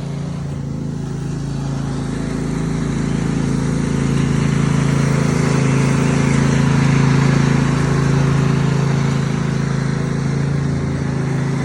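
Garden pulling tractor's engine running steadily, getting louder over the first several seconds and easing off a little near the end.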